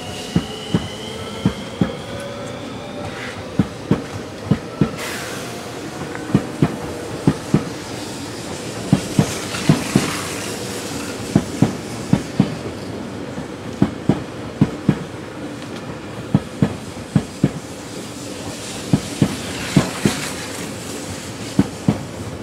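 E351-series Super Azusa limited express pulling out: its wheels clack over the rail joints in quick pairs as each bogie passes, in a steady rhythm. In the first few seconds the traction motors give a whine that rises in pitch as the train gathers speed.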